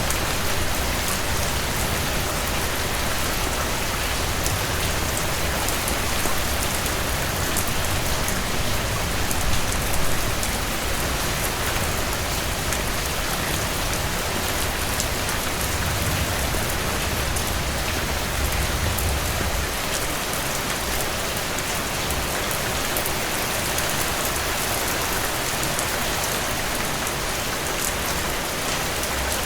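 Heavy rain falling steadily on a surface, an even hiss with fine patter, and a low rumble that swells twice, about ten seconds in and again around seventeen seconds.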